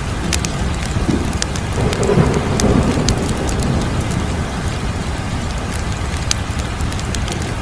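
Wood fire crackling, with scattered sharp pops over a steady low rumble; the rumble swells for about a second, two to three seconds in.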